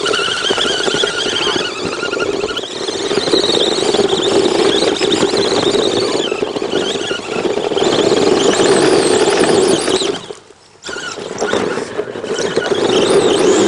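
Electric RC truck's motor and gear train whining under load as it drives over the obstacles. The whine stops for about half a second roughly ten seconds in, then picks up again.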